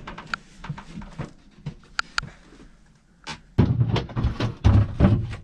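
Boat cabin hatch boards being handled and set back in place: a run of light clicks and knocks, then several heavy thumps in the last two seconds.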